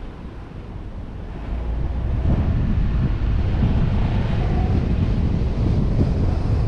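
Wind rushing over the microphone of a vehicle-mounted GoPro while driving, mixed with road and engine noise. It grows louder about two seconds in and then holds steady.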